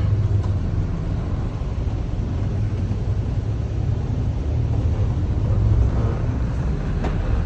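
Steady low rumble of a running motor vehicle, with a continuous drone and road noise.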